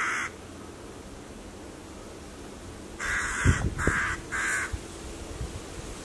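Harsh, hoarse bird calls, crow-like caws: one at the very start, then three in quick succession about three seconds in.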